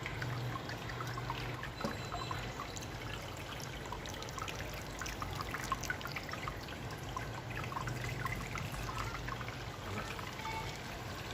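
Water trickling and dripping down through the cooling pad of an evaporative air cooler, lifted there by its water pump, over a steady low hum from the running unit.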